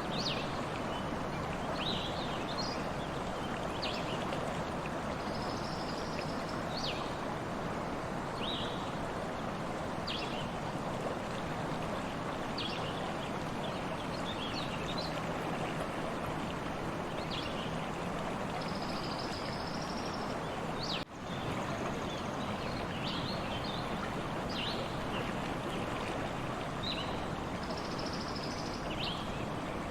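A stream running steadily, with small birds chirping throughout in short high calls and a few brief trills. About two-thirds of the way through the sound drops out for a moment.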